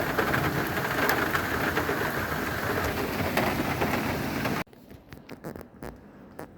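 Heavy rain pouring, a dense steady hiss that cuts off abruptly about four and a half seconds in. Faint scattered clicks and handling noises follow.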